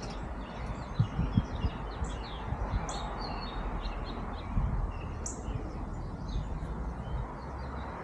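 Small songbirds chirping and calling in many quick, short notes, over a low steady rumble.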